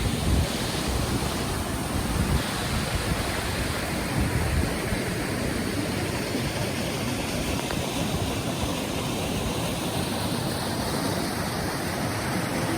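Waterfall pouring into a swimming hole: a steady, even rush of falling water.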